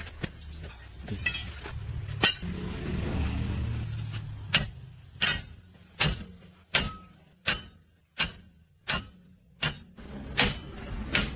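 Evenly spaced hammer blows, about one every three-quarters of a second, starting a few seconds in after a low rumble, typical of hammering on metal parts during a machine repair.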